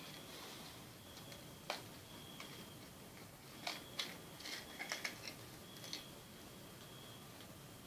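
A few light, sharp clicks and taps of small parts being handled during a netbook teardown, with a quick cluster of them about five seconds in.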